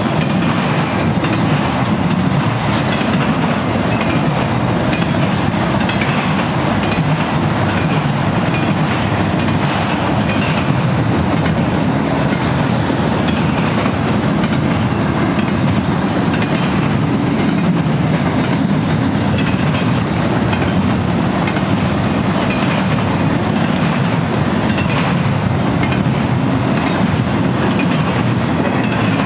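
Cars of an intermodal freight train rolling past: steel wheels running on the rails, a loud, steady noise that does not let up, as trailer flatcars give way to double-stack container well cars.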